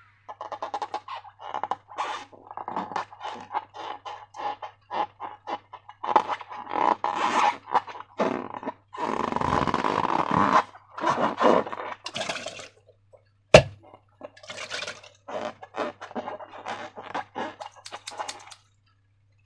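Sticky slime being squeezed and worked by hand: a steady run of small wet crackles and squelches, with a longer squelching stretch about halfway through. One sharp, loud snap comes about two-thirds of the way in.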